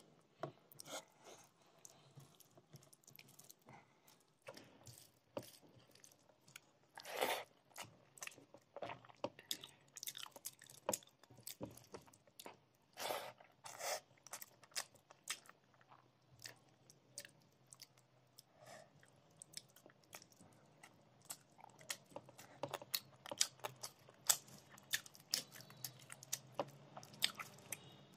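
Close-up chewing of a mouthful of rice and fish curry, with many short, irregular wet clicks and a few louder crunchy bites.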